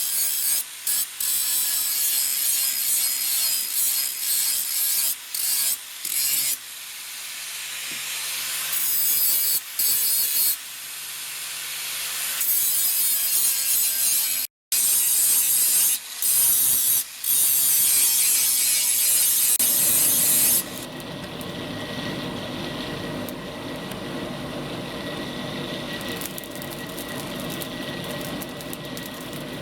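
Hand filing of a steel tool blade: harsh rasping scrapes, stopped and restarted abruptly several times. About two-thirds of the way in, it gives way to a steadier, quieter, lower hum.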